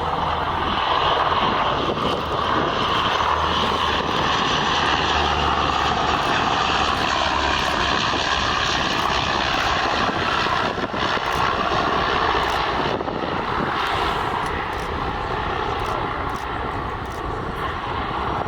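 An airliner's engines running loudly and steadily as it passes on or near the runway, a dense roar that eases a little in the last few seconds.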